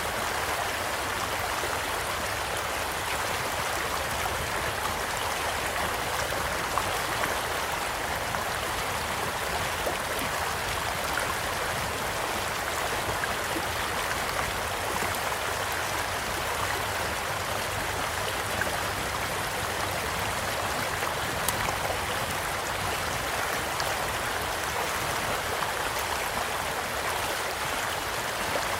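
Steady rushing and babbling of a gently flowing stream, with a few sharp crackles and pops from a campfire.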